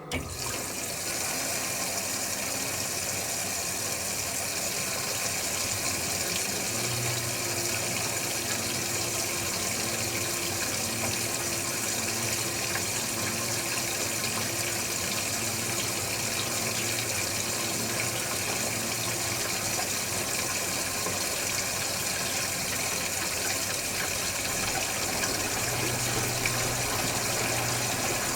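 Electrolux Wascator W355H commercial washing machine filling with water: a steady rush of incoming water that starts suddenly, with a faint low hum coming and going.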